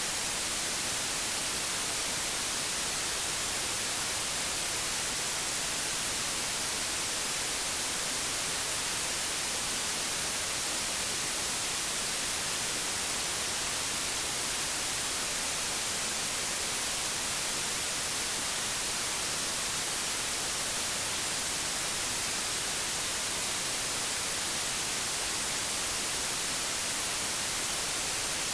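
Old analogue television static: a steady, even hiss with more treble than bass.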